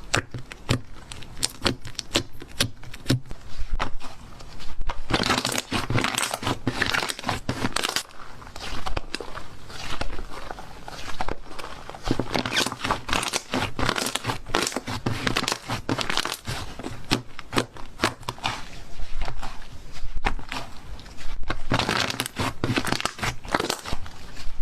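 Slime being squished and worked by hand: a dense run of sharp crackling and popping clicks, with louder rustling stretches now and then.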